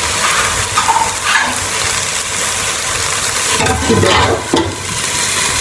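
Chicken and vegetables sizzling in a hot frying pan, with a few short scrapes of a spoon stirring them about a second in and again near four seconds.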